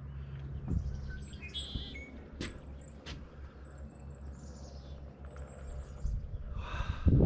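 Small birds chirping and calling now and then over a steady low background hum, with a few dull thumps, the loudest one near the end.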